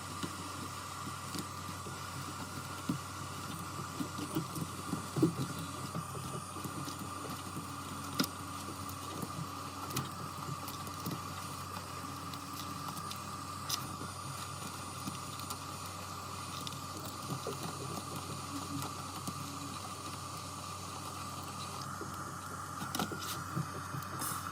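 Scattered small clicks and light rustling from hand work on an iPad over a steady high-pitched hum from repair-bench equipment.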